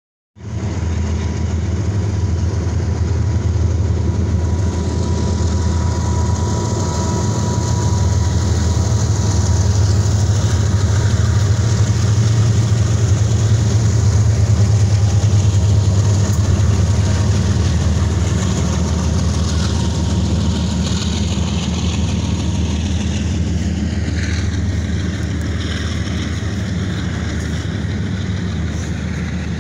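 BNSF diesel train passing close by, its locomotive engines giving a loud, steady low rumble. High squeals slide in pitch toward the end as the cars roll past.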